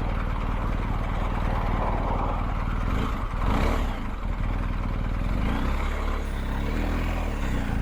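BMW R1250GS Adventure's boxer-twin engine running steadily on the move, with a brief dip in the engine note about three seconds in.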